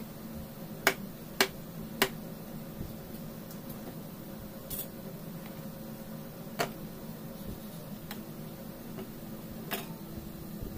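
Sharp knocks and clicks of a large kitchen knife and utensils against a wooden cutting board and dishes while boiled potatoes are peeled, three close together in the first two seconds and a few more spread out after, over a steady low hum.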